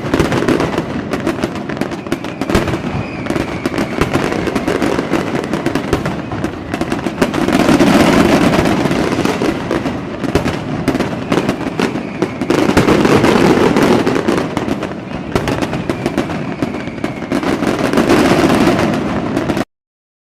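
Fireworks crackling and popping in a dense barrage, swelling into louder bursts about every five seconds, with faint falling whistles. It cuts off suddenly near the end into silence.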